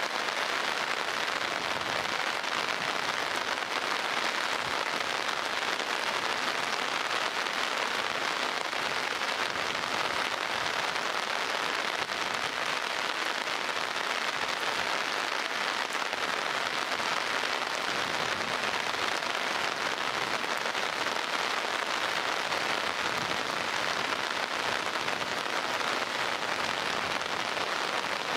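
Heavy downpour: rain falling in a steady, even hiss that neither swells nor fades.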